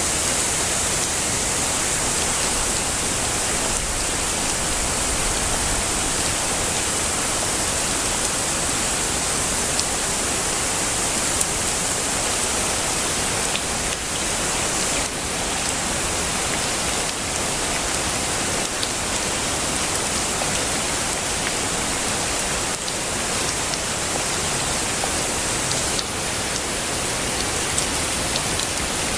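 Heavy rain falling steadily, a dense even hiss with a few faint drop clicks.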